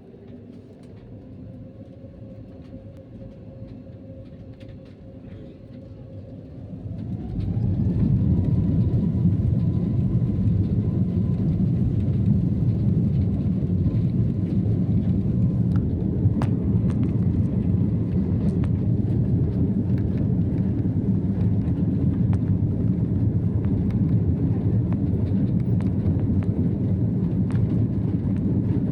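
Airbus A320 jet engines spooling up for takeoff: a whine rises in pitch, then about seven seconds in a loud, steady rumble of takeoff thrust sets in and holds.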